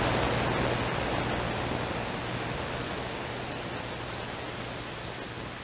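CB radio receiver hiss: open-squelch static from the speaker after a transmission drops, slowly fading, over a steady low hum.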